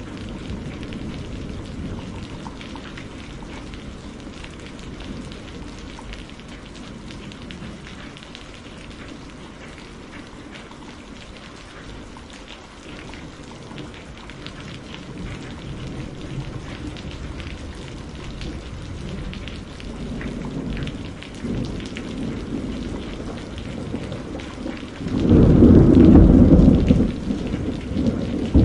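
Steady rain falling, with low rolling thunder underneath; a loud clap of thunder breaks out about 25 seconds in and rumbles for a couple of seconds, and another peal starts near the end.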